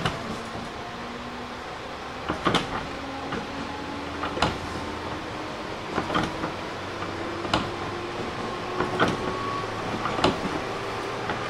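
JR 205 series 600-subseries electric train pulling away from a stop, heard from inside: a knock at the start, then a faint whine from the traction motors and gears that slowly rises in pitch as the train gains speed. The wheels clack over rail joints about every one and a half seconds, the clacks coming a little closer together.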